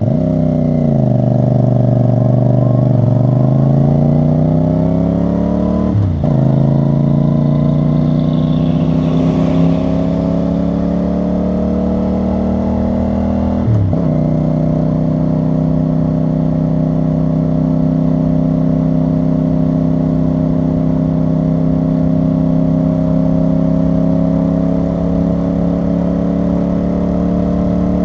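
CFMoto CL-C 450 cruiser's parallel-twin engine and exhaust under way: the engine note dips, then climbs as the bike accelerates, drops sharply at upshifts about 6 and 14 seconds in, and then holds a steady cruising note.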